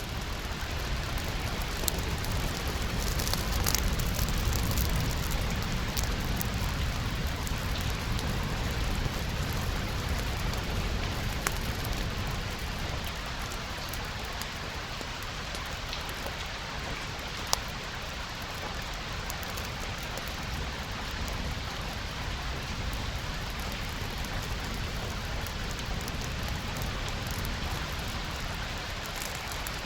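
Steady rain falling, with a few sharp crackles and pops from a wood fire, one louder pop a little past the middle. A low rumble swells under the rain in the first part and fades away.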